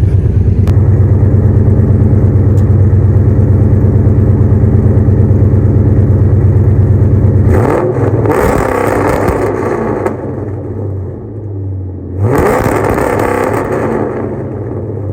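Cammed Ford Crown Victoria 4.6-litre V8 held at a fixed rpm on an MSD two-step rev limiter, with a rapid choppy stutter as the limiter cuts spark. About seven and a half seconds in it comes off the limiter, and two bursts of harsh, rough exhaust noise follow.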